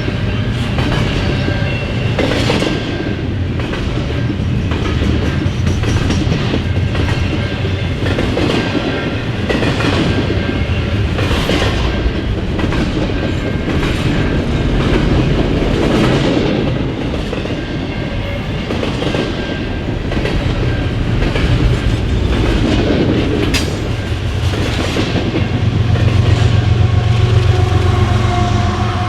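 Freight cars of a CN intermodal train rolling past, steel wheels clicking over rail joints under a steady rumble, with a faint ringing tone from the wheels at times. A deeper hum builds near the end.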